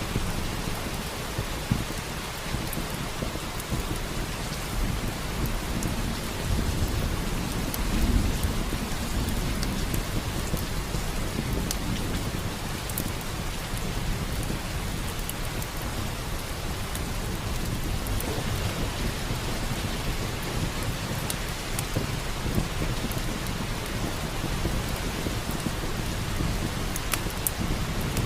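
Steady heavy rain hissing, with a low rumble of thunder that swells and peaks about eight seconds in. Scattered sharp crackles from a wood fire sound over the rain.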